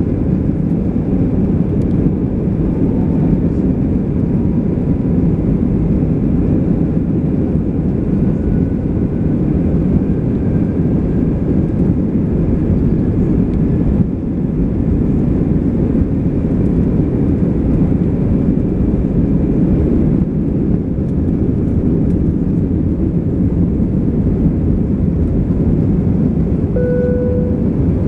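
Airbus A320's engines and rushing air heard from inside the passenger cabin as a steady, even roar. A brief single tone sounds near the end.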